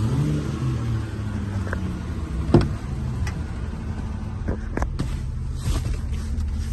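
Engine of a 2005 Chevrolet Silverado 2500 running: a brief blip of revs at the start falls back to a steady idle. There is one sharp click about two and a half seconds in and a few fainter clicks later.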